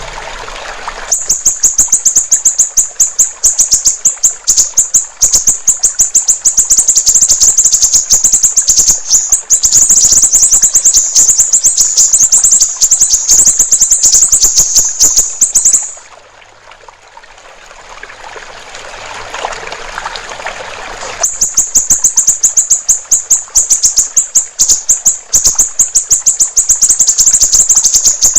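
Siri-siri bird singing a very fast, high-pitched chattering trill, a rapid run of clicks, over trickling water. The song starts about a second in, breaks off about halfway through leaving only the water, and resumes some five seconds later.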